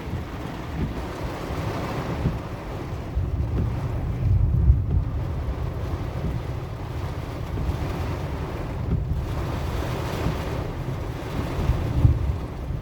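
Steady low rumble of wind and road noise from a moving car in stormy weather, swelling louder about four to five seconds in and again near the end.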